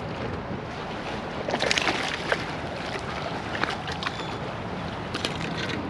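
Shallow salt water sloshing and splashing, with scattered short splashes over a steady wash of water and wind noise on the microphone.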